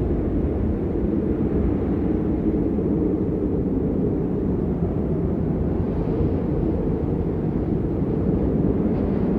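Storm wind blowing across the microphone, a steady low rumble with no let-up.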